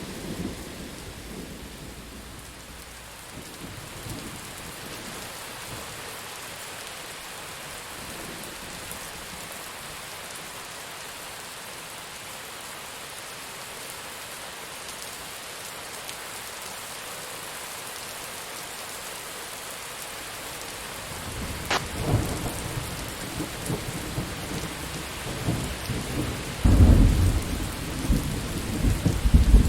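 Steady rain falling through a thunderstorm. About two-thirds of the way in a sharp thunderclap cracks, followed by thunder rumbling that grows louder near the end.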